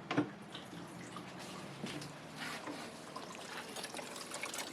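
Water from a low-flow faucet trickling faintly into a sink and down its drain, with a light knock near the start.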